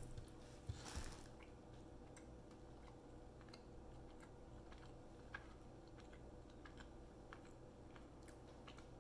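Faint chewing of a bite of hard, Parmesan-style cheese, heard as small scattered crunchy clicks, with a couple of louder mouth sounds in the first second.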